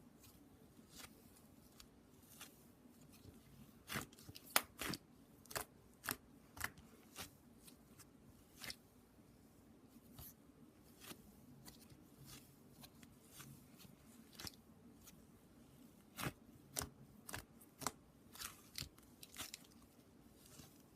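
Irregular sharp clicks and snips from small objects being handled close up, coming in two busier clusters.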